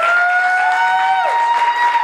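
Audience applauding and cheering as a song ends. Two long, high-pitched cheers glide up and hold over the clapping; the lower one drops off about a second and a half in.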